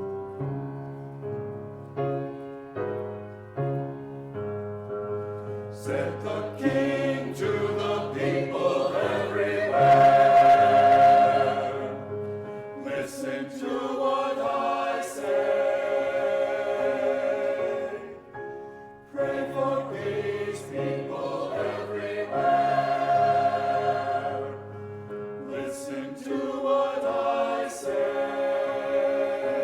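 Church choir singing with piano accompaniment; the first few seconds are mostly piano and low notes, with the full choir coming in about six seconds in.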